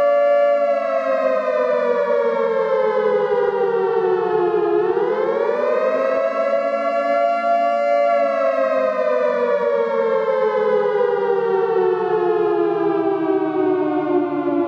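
Nuclear alarm siren wailing, a civil-defence-style siren sounding two close tones together. It holds its pitch briefly, falls slowly, swoops back up about five seconds in, holds for a couple of seconds, then falls slowly again.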